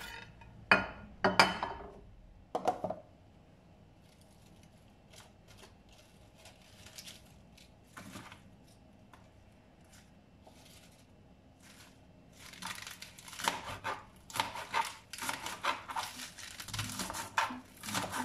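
Handling sounds: a few sharp knocks early, then faint ticks, then from about twelve seconds in a busy run of rustling and crinkling with small clatters.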